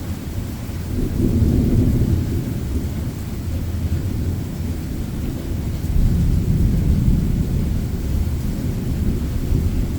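Rolling thunder rumbling deep and long, swelling about a second in and again around six seconds in.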